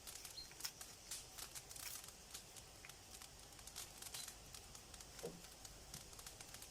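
Wood fire crackling in a garden fireplace: faint, irregular pops and snaps.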